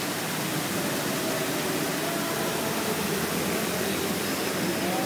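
Steady rushing splash of a water fountain's jets falling into its pool.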